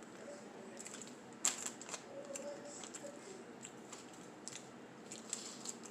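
Scattered small clicks and crunches of a person chewing a snack close to the microphone, the sharpest about one and a half seconds in.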